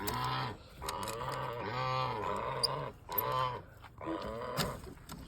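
Domestic geese calling: a run of about four low, drawn-out honks, the longest lasting over a second.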